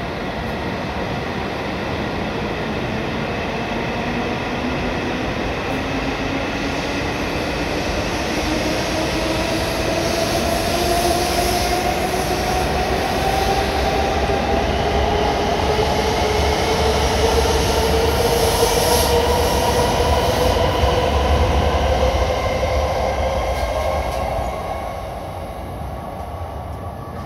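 E7 series Shinkansen train pulling away from a station platform and gathering speed: its electric traction motors whine, rising steadily in pitch, over the rumble of wheels on rail. The sound grows louder as it accelerates, then drops away near the end as the last car passes.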